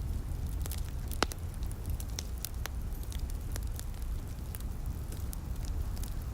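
Fire in a fireplace crackling, with irregular sharp pops, one louder about a second in, over a steady low rumble.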